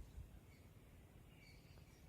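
Near silence: a faint low rumble with a few very faint short high chirps, the first about a quarter of the way in and a couple more past the middle.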